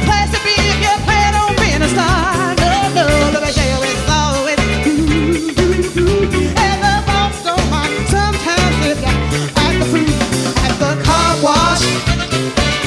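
Disco-funk song with a lead vocal singing over a steady bass-and-drum groove and guitar.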